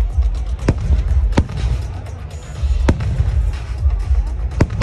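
Fireworks bursting: four or five sharp cracks a second or so apart over a constant low rumble of booms.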